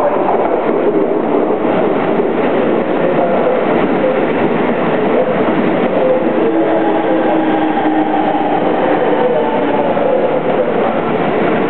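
Keikyu 2100 series electric train running past the platform: a steady loud rumble of wheels and motors with a faint steady whine.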